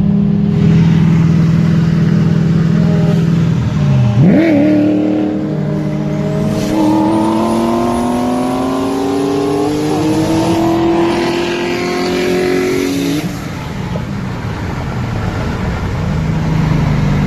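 A performance car engine at full throttle in a roll race. It runs steadily at first, drops and jumps sharply about four seconds in, then climbs steadily in pitch for about six seconds with a thin high whistle over it, and falls away as the throttle is lifted.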